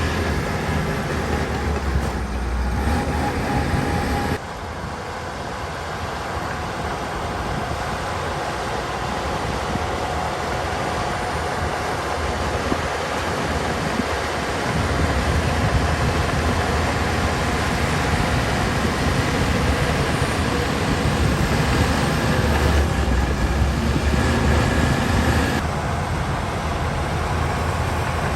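Heavy diesel earthmoving machinery at work, a crawler bulldozer among dump trucks, with steady engine noise and clatter. The sound drops suddenly about four seconds in and grows louder again from about fifteen seconds.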